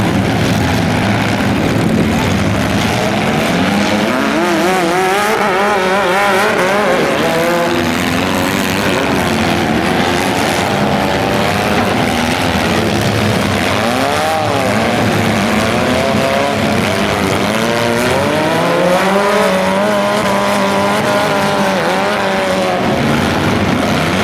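Several compact demolition derby cars' engines running and revving together, their pitch rising and falling again and again over a steady low drone.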